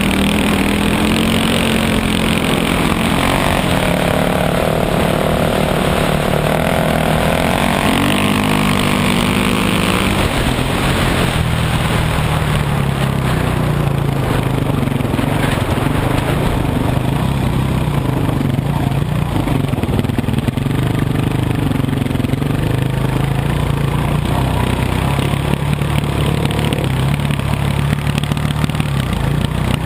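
Dirt bike engine running as it is ridden, its pitch rising and falling with the throttle.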